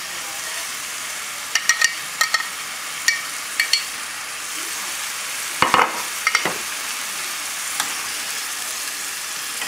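Chicken cutlets and their olive-oil, lime and cilantro marinade frying with a steady sizzle in a non-stick skillet over high heat. A few light clicks and a louder knock about six seconds in.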